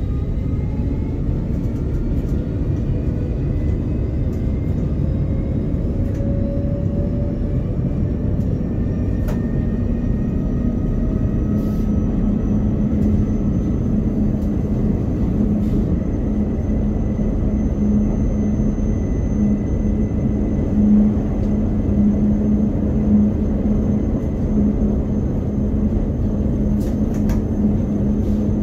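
Train running, heard from inside the driver's cab: a steady rumble of wheels on the track, with a whine that rises in pitch over the first several seconds as the train picks up speed, then holds steady. A few sharp clicks come through now and then.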